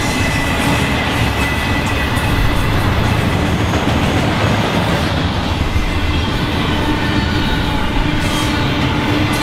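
Double-stack container freight train's well cars rolling past close by: a steady rumble of steel wheels on rail, with thin squealing tones from the wheels that come and go.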